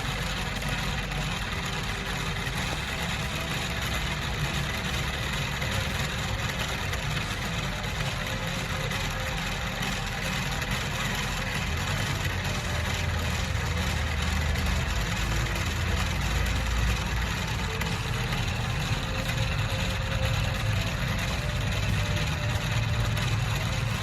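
A machine running steadily with a low hum, getting a little louder about halfway through.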